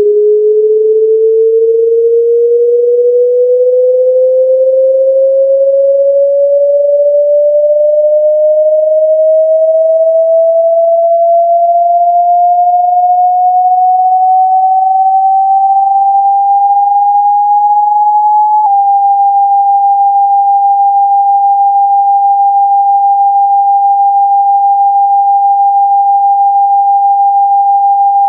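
Speaker-cleaning sine tone, a single pure pitch gliding slowly upward for about eighteen seconds, then with a click switching to a steady high tone near 800 Hz that holds. It is a water-eject and dust-removal tone meant to vibrate a phone speaker's cone and push out water and dust.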